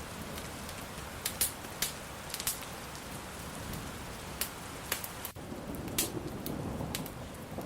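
Steady rain with sharp crackles and pops from a wood fire scattered through it. About five seconds in, a low rumble of thunder starts to build.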